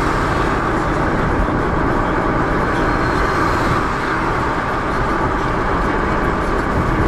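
Steady noise of a moving car, with engine and road rumble running evenly and no sudden events.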